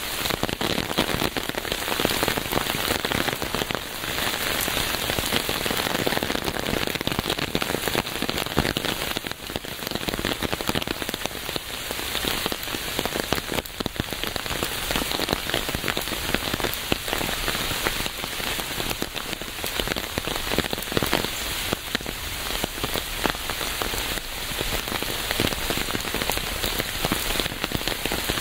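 Steady rain falling, a dense hiss of many drops with fine individual ticks of drops striking a surface, unbroken throughout.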